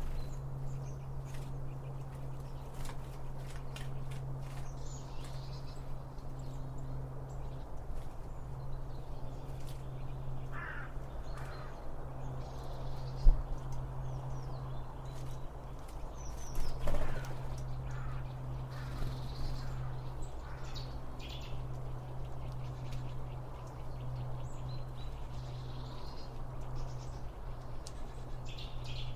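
Wild birds calling on and off, with short chirps and a few harsher, louder caw-like calls, over a steady low hum. One sharp click sounds about 13 seconds in.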